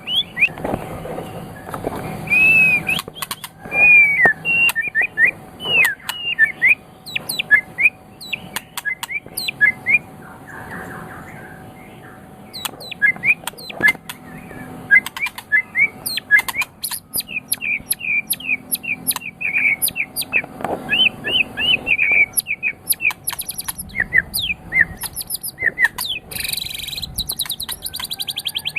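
White-rumped shama singing a varied, continuous song of rising and falling whistles, chirps and sharp clicking notes, broken by short pauses, with a quick run of rapid notes near the end.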